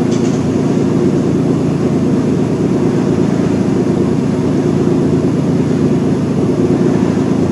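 A loud, steady low mechanical drone with a few steady tones in it, unchanging throughout, with a faint short click right at the start.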